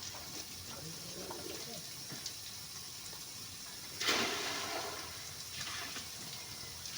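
Water splashing onto a truck as it is washed, with a loud gush about four seconds in that tails off over a second and a weaker one near six seconds.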